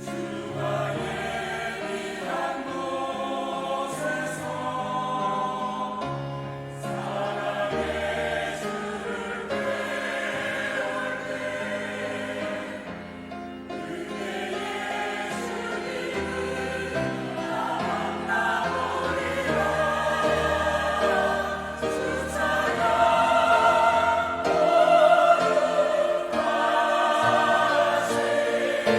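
Church choir singing a sacred anthem in several parts with held notes, growing louder over the second half.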